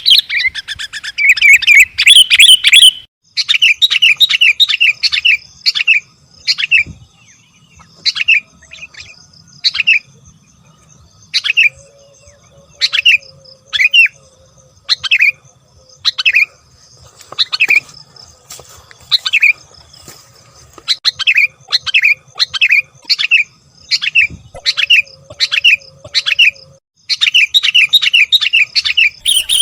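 Bulbuls, sooty-headed and yellow-vented, giving agitated chattering calls as a bird-luring recording. The short chirps come in fast runs at the start and near the end, with single notes spaced about a second apart in between.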